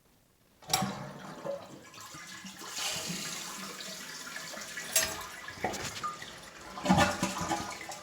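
2007 Kohler Rialto toilet being flushed: a sharp click about a second in, then water rushing steadily, with another click around five seconds in and a louder surge near the end before it drops away.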